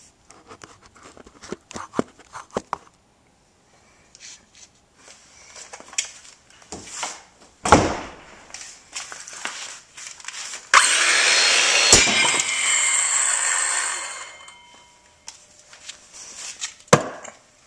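Several seconds of handling knocks and clatter, with one heavy knock. Then a circular saw starts abruptly and cuts into a Western Digital Passport hard drive for about three seconds, with a sharp crack partway through, before the sound dies away. The platter inside turns out to be aluminum and bends rather than shattering.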